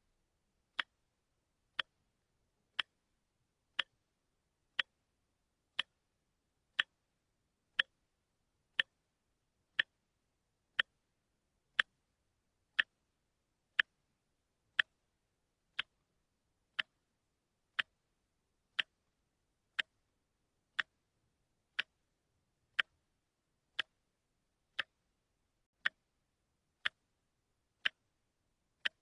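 A watch ticking steadily, once a second: sharp, even clicks with silence between them.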